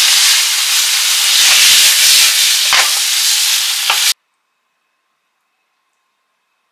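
Pork belly, cabbage and green pepper sizzling in a hot frying pan as they are stir-fried with wooden chopsticks: a loud, steady sizzle with a couple of short clicks. It cuts off suddenly about four seconds in, leaving near silence.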